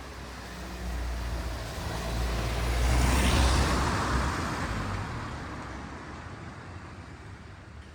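A motor vehicle passes close by: its engine and tyre noise grow louder, peak about three seconds in, then fade away.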